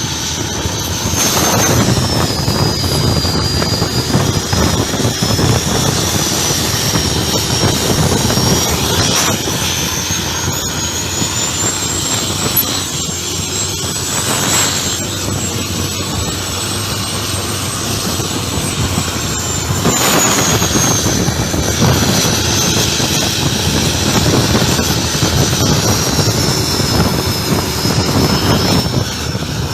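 Turbocharged diesel engine of a Thai longtail racing boat running hard, with a high turbo whistle over the engine noise. The whistle climbs slowly to its highest pitch around the middle, then falls back.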